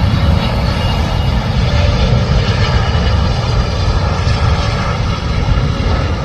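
Jet airliner flying over, a loud steady rumble with faint whining tones above it.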